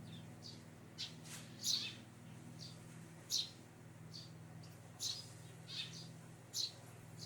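Eurasian tree sparrow chirping: a series of short, high chirps, about one a second.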